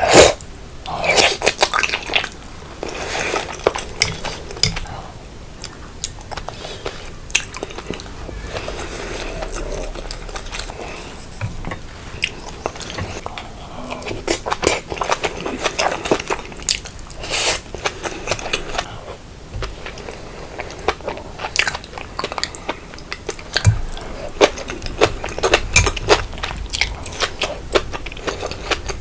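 Close-miked eating: irregular chewing and crunching, with spoon or chopsticks clicking against dishes and a loud clink right at the start.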